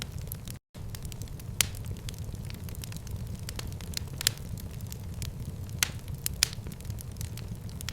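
Wood fire in a fireplace burning with a steady low rumble and scattered sharp crackles and pops. The sound cuts out completely for a split second less than a second in.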